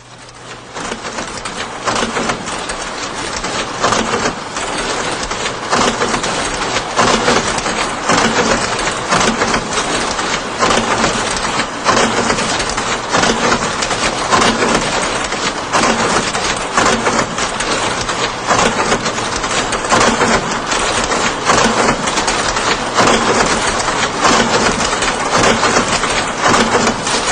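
Twin steam engine running: a steady rhythmic clattering chug with a hissing noise, fading in over the first couple of seconds.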